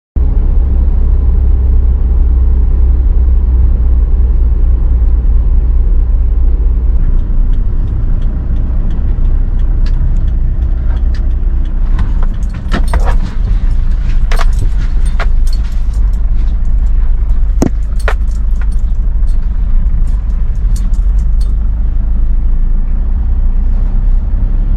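Heavy wind and surf buffeting a GoPro HERO 8 Black's microphone in typhoon conditions: a loud, steady low rumble, with sharp clicks and crackles from about halfway through.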